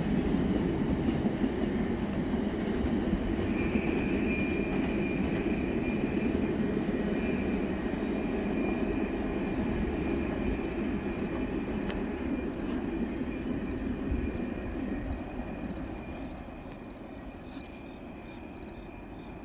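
Freight train of oil tank cars rolling away, its low rumble fading in the last few seconds as it recedes. An insect chirps steadily throughout, a short high chirp repeating at an even beat.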